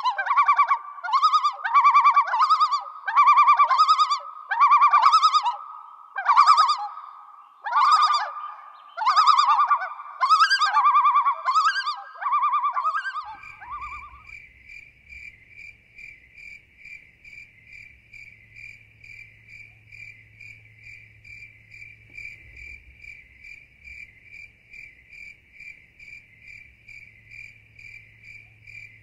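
Outdoor animal calls: a loud trill repeated about once a second for the first half, which stops about 14 seconds in. A steady, pulsing, higher-pitched trill follows over a faint low hum.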